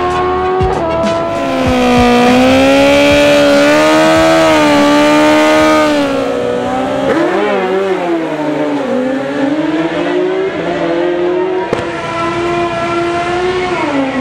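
Sport motorcycle engine held at high revs, its pitch wavering up and down and dropping near the end, with some tyre squeal, as in a burnout.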